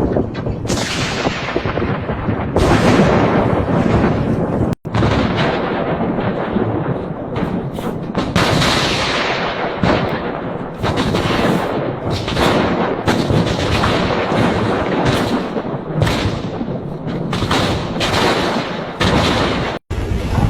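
Severe thunderstorm: loud thunder cracks and rumbles, one after another, over a constant rushing storm noise. The sound cuts out abruptly twice, about five seconds in and near the end.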